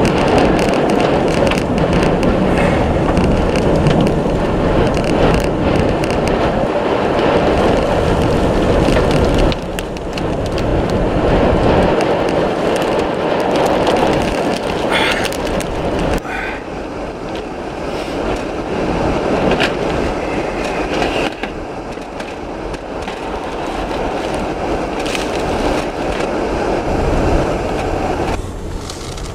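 Storm-force wind buffeting the microphone: a loud, continuous rumbling rush that swells and eases in uneven gusts.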